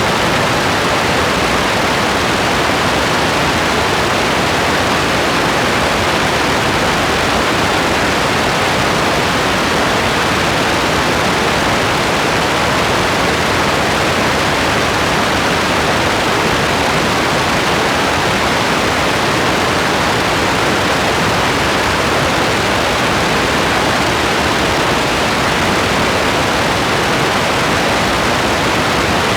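Steady rain: an even, unbroken hiss with no separate drops, thunder or changes.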